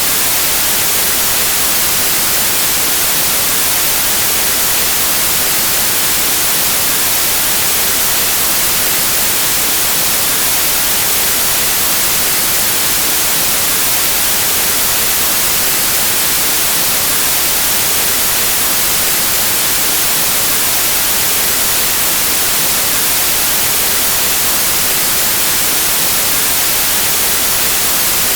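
Pure white noise: a steady, even static hiss, brightest in the high frequencies, with no change in level.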